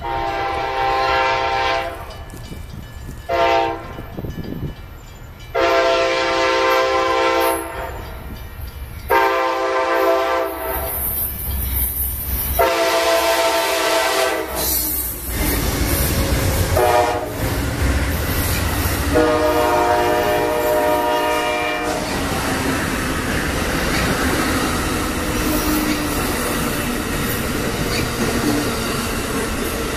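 Amtrak passenger train approaching and passing close by. Its diesel locomotive's air horn sounds a series of about seven long and short blasts, ending about 22 seconds in. A steady rumble of engine and wheels on rail runs under the horn, and afterwards the double-deck cars roll past with continuous wheel and rail noise.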